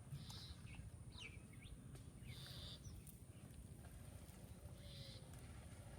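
Faint bird calls: a few quick sliding chirps and three short buzzy notes, spaced about two and a half seconds apart, over a low background rumble.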